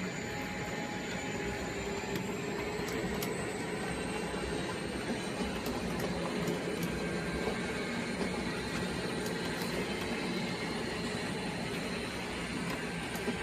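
Model train running on a layout: a steady running sound with a faint high whine that rises slightly in the first few seconds, and scattered small ticks.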